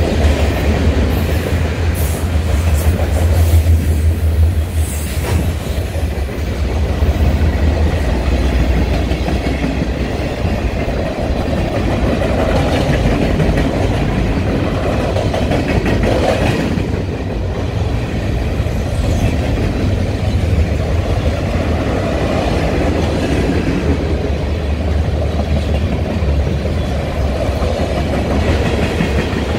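Freight cars rolling past: steady low rumble of steel wheels on the rails, with sharp clicks of the wheels near the start.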